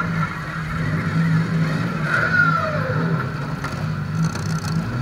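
Demolition derby car's engine idling steadily with an uneven pulsing note, with a brief falling whine about two seconds in.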